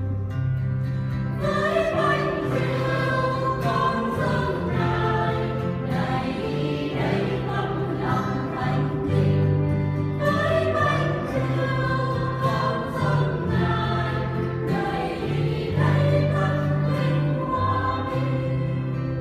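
A mixed church choir singing a Vietnamese hymn, with accompaniment carrying a steady, stepping bass line beneath the voices.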